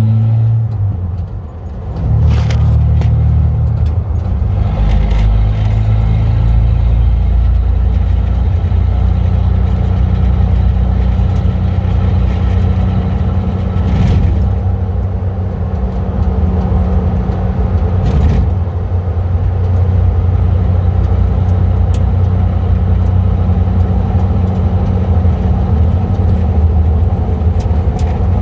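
1995 Ford F-150's 4.9-litre (300 cu in) inline-six driving with a muffler delete, the pipe cut off behind the catalytic converters, heard from inside the cab: a deep exhaust drone. It dips briefly about a second in, rises in pitch as the truck accelerates, then holds steady at cruise.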